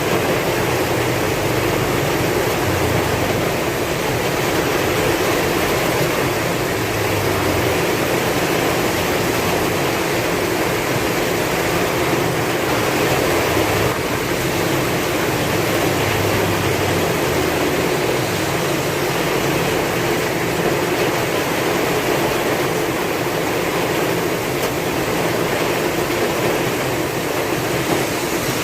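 Heavy rain with strong wind: a steady, dense rush of rainfall, with a low rumble swelling and fading now and then.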